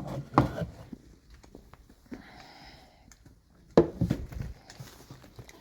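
Things being handled while cat food is got ready: scattered small clicks and soft rustling, with a sharp knock about half a second in and another about four seconds in.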